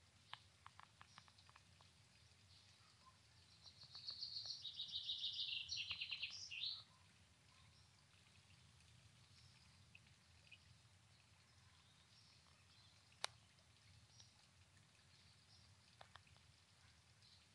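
A songbird sings one fast trilled phrase of about three seconds, its repeated notes stepping down in pitch and ending in a short upward flourish, over a faint low outdoor background. A few faint ticks come early on, and one sharp click comes later.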